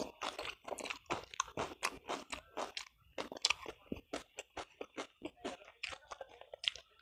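Close-miked chewing: a person chewing a mouthful with crunching and wet mouth clicks and smacks, in quick irregular succession, dying down near the end.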